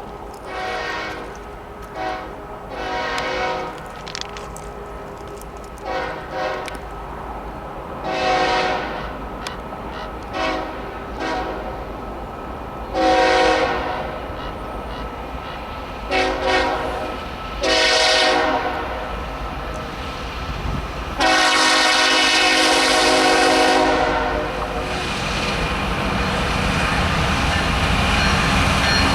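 Union Pacific C45AH diesel locomotive's multi-tone air horn sounding a long series of short and medium blasts, then one long blast of about three seconds. Afterwards the rumble of the approaching train grows steadily louder.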